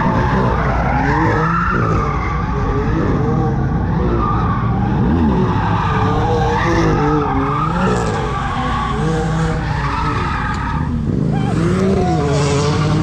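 Car tyres squealing continuously under a hard-running engine, typical of a burnout or drift, the squeal wavering in pitch and changing character about eleven seconds in.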